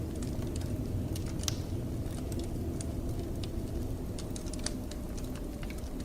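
Wood fire crackling in a fireplace, with irregular sharp snaps and pops over a steady low rush of blizzard wind.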